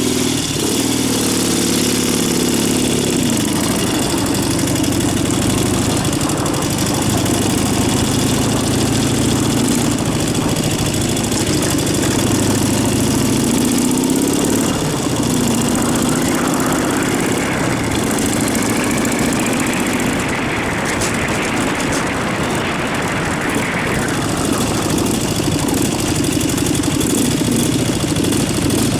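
Dnepr K-650 motorcycle's flat-twin engine running, its pitch rising and falling with the throttle.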